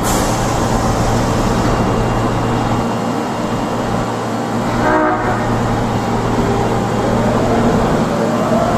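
Osaka Metro 22 series subway train giving a short blast on its unusual-sounding horn about five seconds in, then pulling out, its motors whining and rising in pitch near the end.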